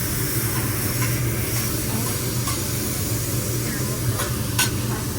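Food sizzling on a hot teppanyaki griddle: a steady hiss that starts abruptly, over a low steady hum, with a couple of light clicks near the end.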